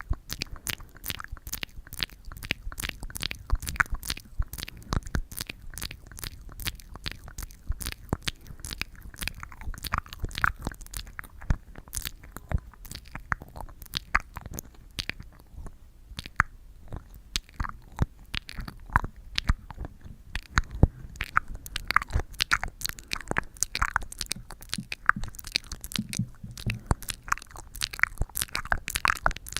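Close-up sticky ASMR sounds: a tacky surface crackling as it clings and pulls away near the microphone, as many quick irregular clicks and pops, several a second.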